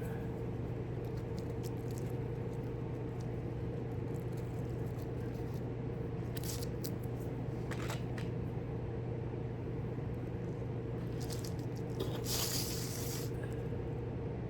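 A steady hum with a few short scrapes and rustles of small model parts being handled, the longest about twelve seconds in.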